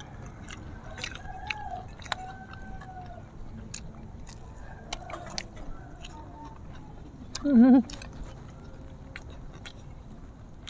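Close-up biting and chewing of crumb-coated fried food, with scattered sharp crunches and mouth clicks. About three quarters through, a short, wavering, hummed "mmm" from one of the eaters.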